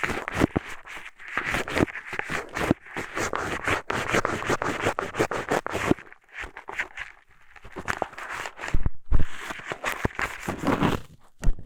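Eyeglasses used as an ear pick, scratching and scraping inside a microphone's ear hole in quick irregular strokes, with a short lull about six seconds in and a few heavier knocks a little later.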